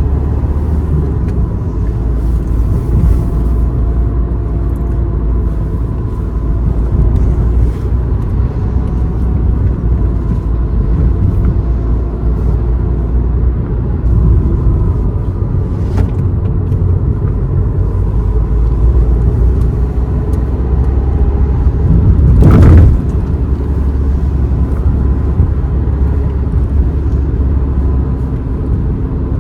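Steady low rumble of a car's engine and tyres while driving along a road. About two thirds of the way through, a louder whoosh builds and then stops abruptly.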